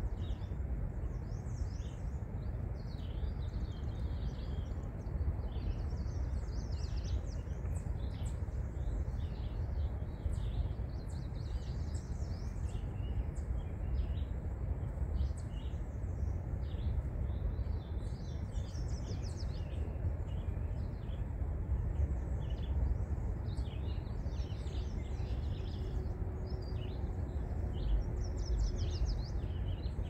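Birds chirping and calling in many short, high notes over a steady low rumble.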